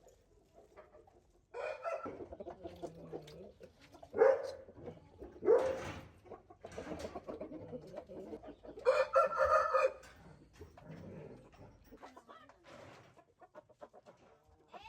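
Chickens clucking and a rooster crowing, a series of separate calls with a longer crow about nine seconds in.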